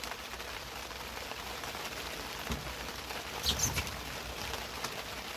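Heavy rain pattering steadily on the boat and the water, with a couple of low knocks and a brief high squeak a little past the middle.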